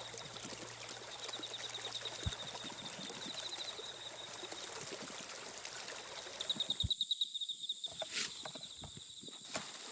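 Steady running water with a high, rapid chirping trill that comes and goes. About seven seconds in, the low water noise drops away and the trill goes on, with a few sharp clicks.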